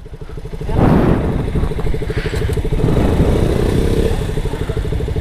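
Motorcycle engine running under way, swelling in level over the first second and then holding steady with a fast even pulse.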